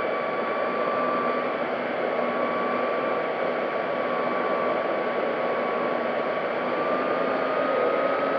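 Electric motor and propeller of an FMS P-40B Warhawk 1400mm RC plane whining steadily in flight, heard from an on-board camera under heavy wind rush. The pitch sags a little, then climbs again near the end as the throttle is opened.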